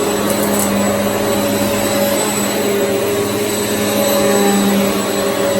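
Hoover EliteSwivel upright vacuum cleaner running steadily: a constant motor hum with a steady whine over it. A few brief ticks come about half a second in.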